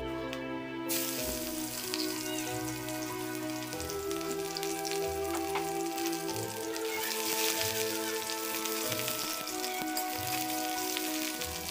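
Hot oil sizzling in a kadai as sliced onion and garlic fry with dried red chillies and mustard seeds, with a spatula stirring. The sizzle grows louder about seven seconds in, over background music.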